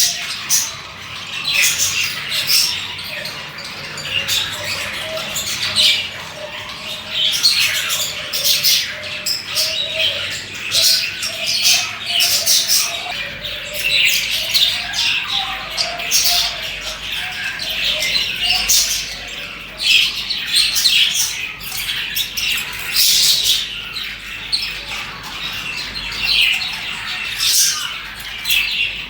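A group of budgerigars chirping and chattering continuously, rapid overlapping squeaky chirps with no pause.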